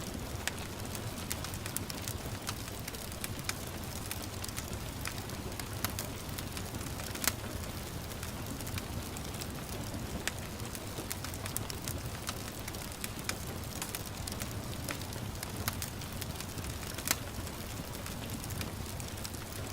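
Wood fire crackling with frequent irregular sharp pops, two of them louder about seven and seventeen seconds in, over a steady hiss of gentle rain.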